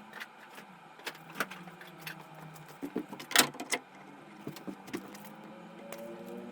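Scattered knocks and clicks of tools and wood being handled, the loudest about three and a half seconds in. Near the end an electric tool's motor starts up, its hum rising slightly in pitch.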